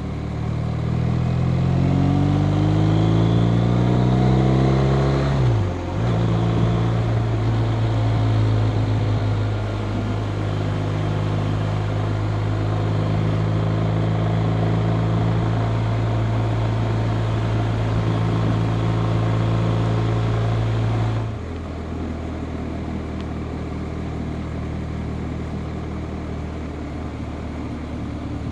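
BMW R 1250 RT's boxer twin engine under way: it climbs in revs for about five seconds, drops briefly at an upshift, then holds a steady drone. About three-quarters of the way through, the level steps down as the throttle eases off, over a constant rush of wind and road noise.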